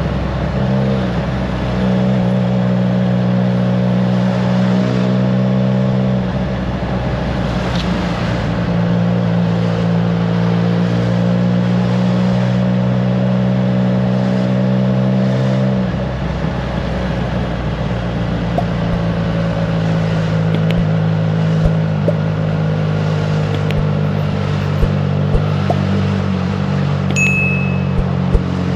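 Triumph Trident 660's inline three-cylinder engine running through a FireTong aftermarket exhaust under way, mostly at a steady pitch with brief dips about six and sixteen seconds in. Wind rumble on the microphone sits underneath.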